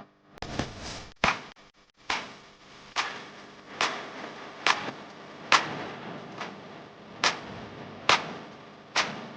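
Sharp, snapping percussive hits repeating in an even rhythm, a little more than one a second, over a faint background.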